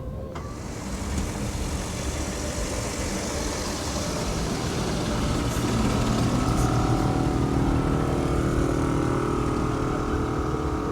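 A car engine running close by, its noise swelling and growing louder about halfway through, with a steady hum of several tones.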